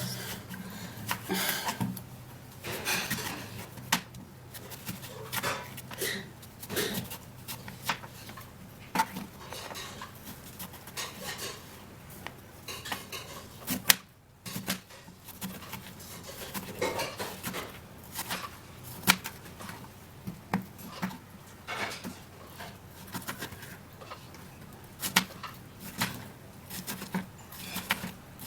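Knife cutting a cucumber into cubes on a cutting board: irregular sharp knocks of the blade hitting the board, with short scrapes between strokes and a brief pause about halfway through.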